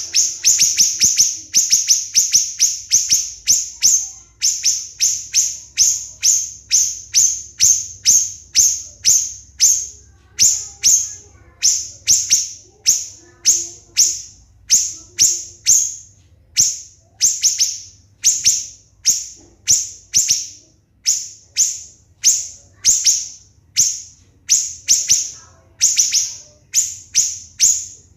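Siri-siri bird calling a fast, unbroken series of shrill, high notes, about two a second. Each note is sharp at the onset and quickly fades: the close-set 'tembakan' (shot) notes that are prized as tutor song.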